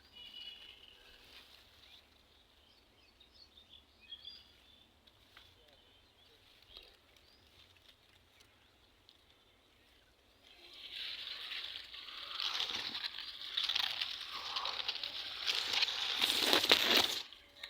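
Faint, scattered bird chirps in a quiet rural background. About ten seconds in, a loud rustling hiss swells up, covers everything, and cuts off abruptly near the end.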